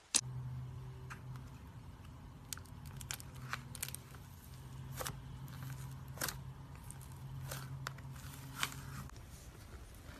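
Slime being pressed and worked by hand, giving scattered sharp pops and crackles. A steady low hum runs underneath and stops about nine seconds in.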